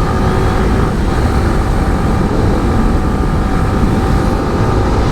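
Motorcycle riding at a steady cruising speed: the engine drones evenly under a heavy, steady rush of wind on the rider's microphone.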